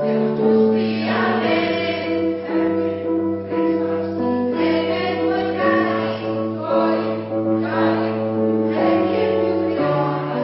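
Polyphonic choir singing in harmony, holding long chords that change every second or two.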